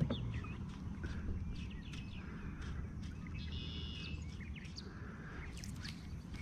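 Small birds chirping now and then over a steady low rumble, with a few light clicks.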